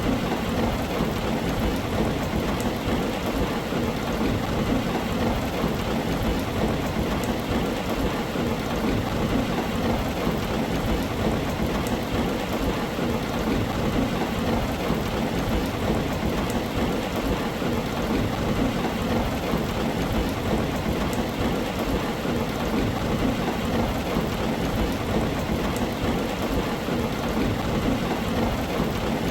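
Steady heavy rain drumming on a tin roof, dense and even throughout, with a few sharp drop ticks standing out.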